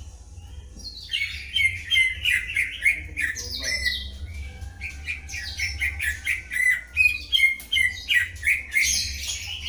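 Greater green leafbird and white-rumped shama singing back and forth in rapid, varied whistles, chirps and harsh notes. The song starts about a second in and is busiest near the start and again near the end, over a steady low hum.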